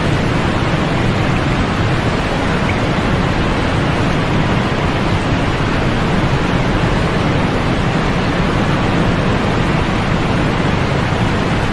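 Continuous white noise for sleep: an even, unchanging hiss with a deep, full low end and little treble.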